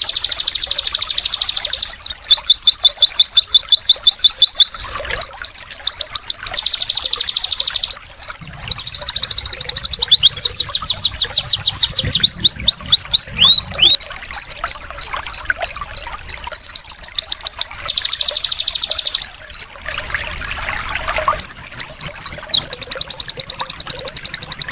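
White-eye (pleci) song: long runs of fast, high-pitched trills and rapidly repeated notes, broken by short pauses, over a trickle of water.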